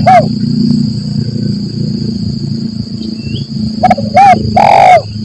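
Spotted dove (tekukur) cooing: one short coo at the very start, then near the end a phrase of two short coos followed by a longer, rolling coo. A steady high-pitched insect drone, like crickets, runs underneath.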